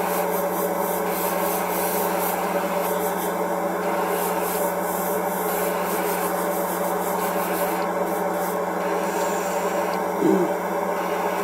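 Steady hum of a small motor with a continuous rubbing hiss over it. A short sliding squeak sounds about ten seconds in.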